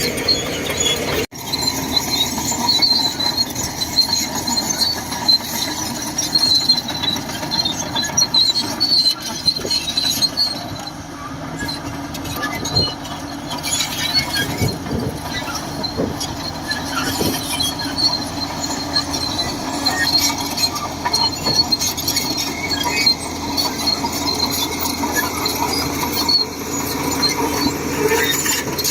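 Shantui DH17C2 crawler bulldozer working, its engine running under load while the steel tracks squeal and clank continuously. The sound drops out for an instant about a second in.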